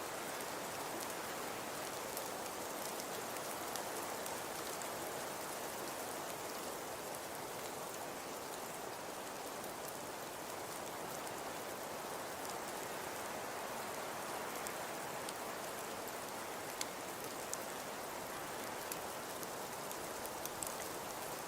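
Fireplace crackling: a steady soft hiss with scattered sharp pops, a few more of them near the end.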